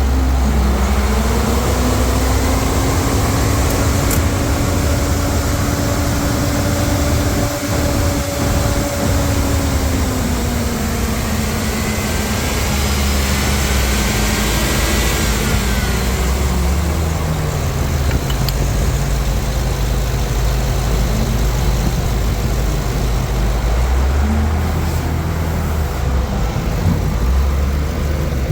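2011 GM/Chevrolet heavy-duty 6.0L gasoline V8 running. About a second in it is brought up from idle to a higher, steady speed and held there. It is then eased back down over several seconds and left idling.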